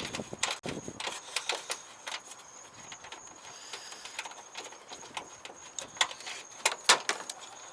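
Scattered clicks and light knocks of hand tools and loosened intake parts being handled in a car's engine bay, with the sharpest clicks about six and seven seconds in.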